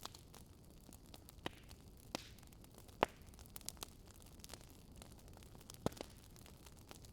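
Wood fire crackling faintly: a steady low hiss with sharp pops at irregular intervals, the loudest about three seconds in.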